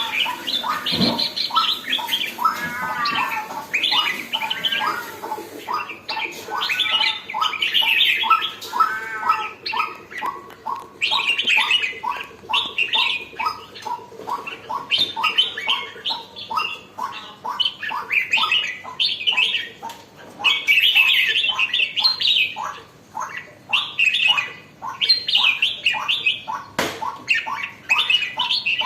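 Red-whiskered bulbul (burung jambul) singing and chattering in quick repeated notes and short warbled phrases, a bird just coming into lively form. A single sharp click sounds near the end.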